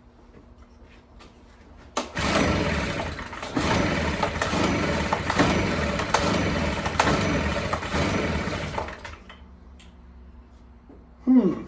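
Stihl BR340 leaf blower being cranked with its recoil starter: several pulls in a row, from about two seconds in to about nine seconds, without the engine catching. It will not start, which the owner puts down to low compression or a lack of spark.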